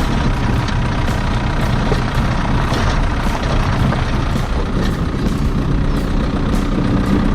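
Vehicle engine running steadily, with light clicking rattles over it.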